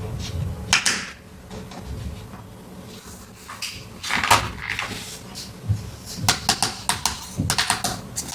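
Small plastic toy pieces and packaging being handled close to the microphone: scattered sharp clicks and short rustles, with a quick series of clicks in the second half.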